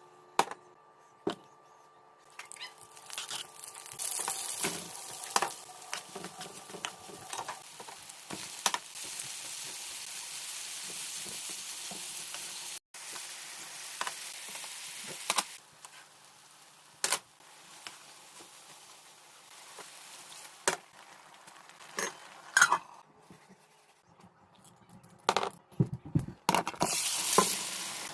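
Food frying and sizzling in a pan, with clinks and scrapes of a utensil stirring against the pan. The sizzling comes and goes at abrupt cuts.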